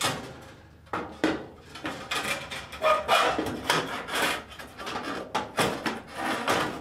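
Sheet-metal wiring cover of a fluorescent light fixture being worked back into the fixture's channel by hand: irregular metal-on-metal scraping and knocking, with a brief metallic ring about three seconds in.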